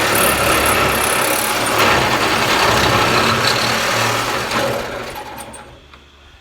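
Power tool cutting through the sheet metal of a pickup truck bed, loud and steady, then winding down and dying away about five to six seconds in.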